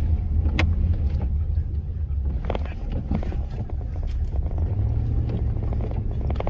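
Vehicle engine running steadily while driving on a snowy, icy road, a low drone whose note steps up a little about five seconds in, with scattered clicks and knocks over it.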